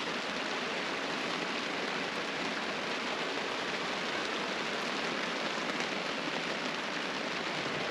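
Steady rain falling on the truck, heard from inside the truck camp.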